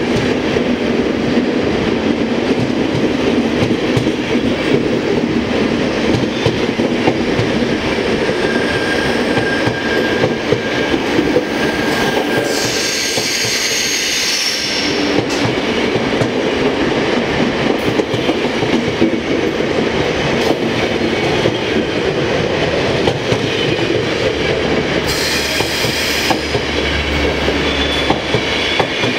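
ÖBB night-train coaches rolling past on the platform track as the train pulls out: a steady wheel-on-rail rumble with clicks over the rail joints. A short, higher wheel squeal comes about halfway through and again near the end.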